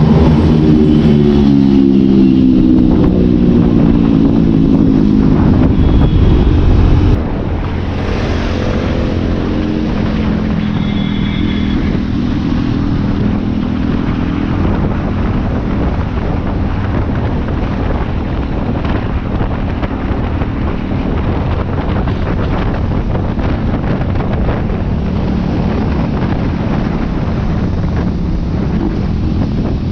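KTM RC 390 single-cylinder motorcycle engine at riding speed. Its pitch falls over the first six seconds as the bike slows. About seven seconds in it drops quieter and runs steadily under heavy wind noise on the microphone.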